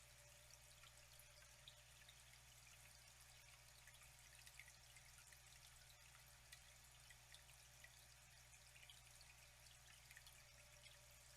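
Faint flowing, trickling water with many small scattered drips and plinks, over a steady low hum.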